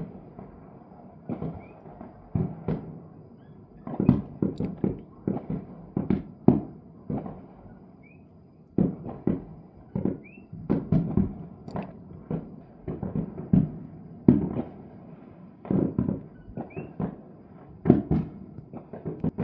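New Year's fireworks going off in many places at once: irregular, overlapping bangs and booms, some in quick clusters and some spaced a second or more apart.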